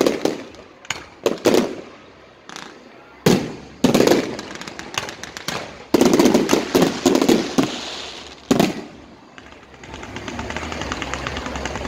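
Fireworks going off in a fast, irregular series of sharp bangs with reverberant tails, packed densely together about six to nine seconds in. In the last couple of seconds the bangs stop and a steady, lower hiss remains.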